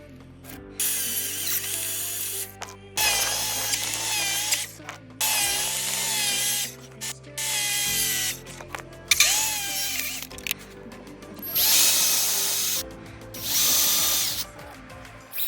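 Table saw running and cutting in about seven short runs, each starting and stopping abruptly, its pitch wavering during each run. Quiet background music underneath.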